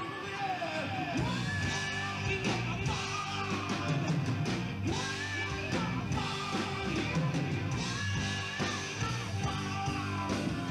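Rock band playing live: a singer over electric guitar and drums.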